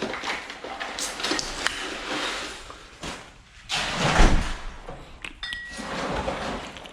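Clattering and rustling of things being handled, with a heavy thump about four seconds in.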